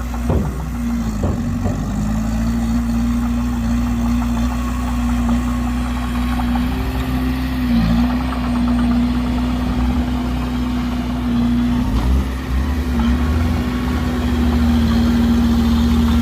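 Heavy diesel engine of earthmoving machinery running steadily under a low rumble. Its pitch dips briefly a few times, and it grows a little louder near the end.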